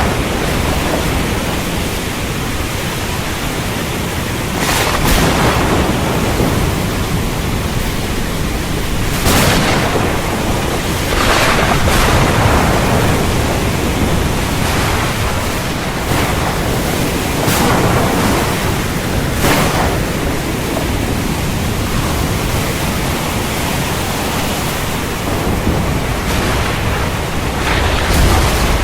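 Heavy rain falling steadily in a thunderstorm, with several brief swells of thunder rising out of the downpour.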